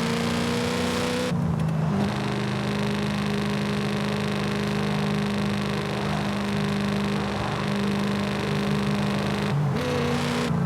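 Audi RS4 engine running under way at a steady note. There are two brief breaks, about a second in and near the end, where the pitch steps down slightly.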